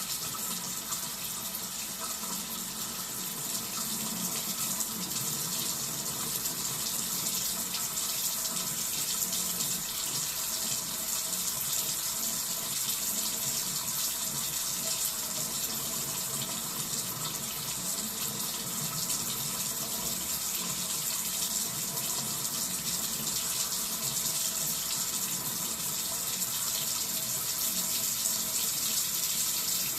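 Cold-water tap running into a sink: a steady hiss of flowing water, with small swells in loudness but no stops.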